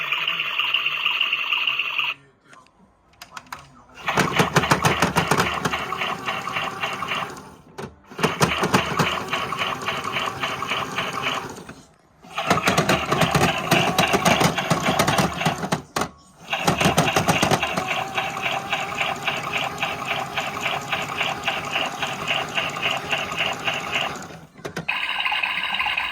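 Small 똘똘이 mini washing machine running with another washing machine tumbling inside it, making a fast, even rattling clatter. The rattling stops briefly several times and restarts, with a steady motor whine at the start and near the end.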